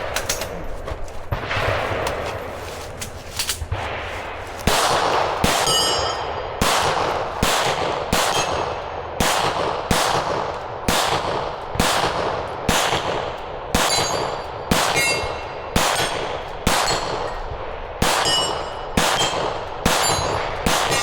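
Gunshots fired at a steady pace of about one a second, beginning about five seconds in, with steel targets ringing after many of the hits.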